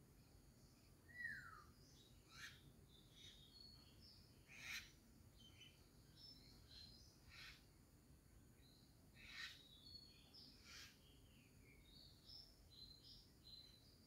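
Faint birdsong: scattered short, high chirps and calls, with a falling whistled note about a second in.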